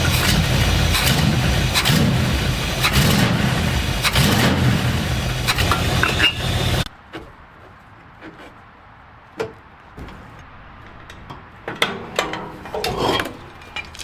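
A 1962 Ford Galaxie's V8 engine running loud and steady, then cutting off suddenly about seven seconds in. Scattered light clicks and knocks follow.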